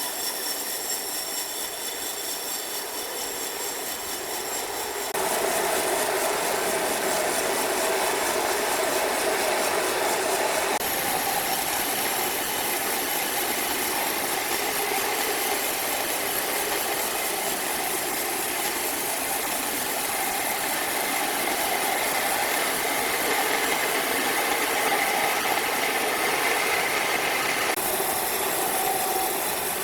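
Heavy machinery running steadily, with a hum that shifts abruptly in pitch and character about five seconds in, again around eleven seconds, and near the end.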